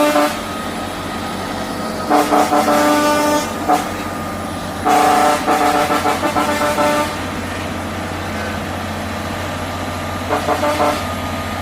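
A heavy truck's diesel engine running steadily, with several horn blasts over it: a blast of over a second, a short toot, a longer blast of about two seconds, then a few short toots near the end.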